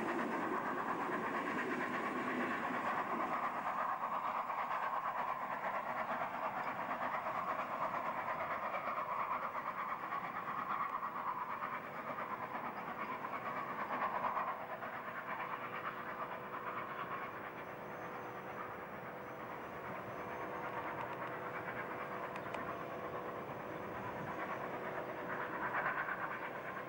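Steam-hauled train of wooden coaches passing and drawing away, its wheels clattering over the rail joints; the rumble is loudest at the start and slowly fades as the train recedes.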